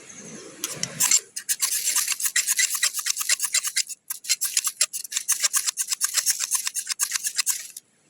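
Fast, even scraping, about seven strokes a second, in two runs that break off abruptly near the middle and again near the end.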